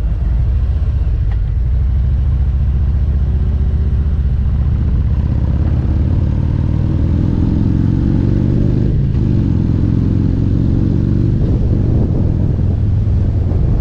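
Harley-Davidson Road Glide's V-twin engine running under load while riding, with a deep, steady rumble. Its pitch climbs as the bike accelerates, drops sharply about nine seconds in at a gear change, then climbs again and drops once more near the end.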